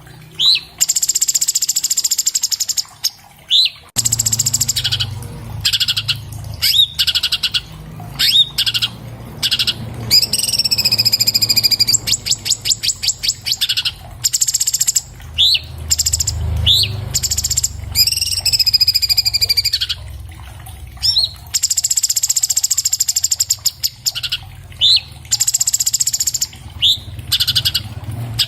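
Cucak cungkok leafbird (Chloropsis hardwickii) singing a fast, varied song: rapid trills of repeated high notes alternating with short, sharp whistled notes and wavering, drawn-out high notes.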